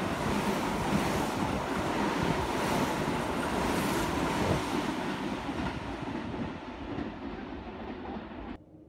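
Kintetsu train, a 5800-series set coupled to a 9020-series pair, running through the station at speed: a loud rush of wheel and running noise with repeated wheel clacks, fading as the last car goes by, then cut off suddenly near the end.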